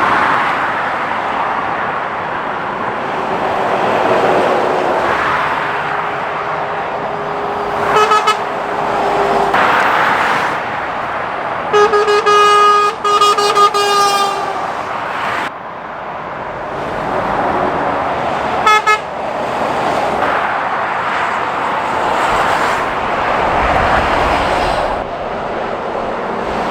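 Lorries and other traffic passing at speed on a dual carriageway, tyre and engine noise swelling and fading with each vehicle. A horn toots briefly about eight seconds in, sounds several longer blasts around twelve to fourteen seconds, and toots briefly again near nineteen seconds.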